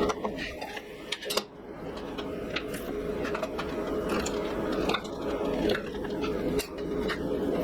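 A steady mechanical hum with occasional sharp clicks and metallic clinks.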